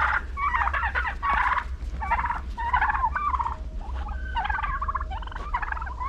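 Several domestic turkeys gobbling, one rapid warbling gobble after another with hardly a pause, over a steady low rumble.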